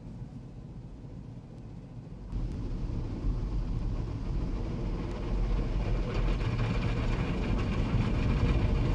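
Automatic car wash machine running over the car, heard from inside the closed car: a low rumble with a hiss of spraying water that jumps louder about two seconds in and keeps building.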